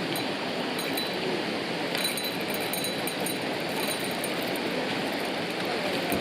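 Steady rush of flowing river water, with a few faint light clinks about two seconds in.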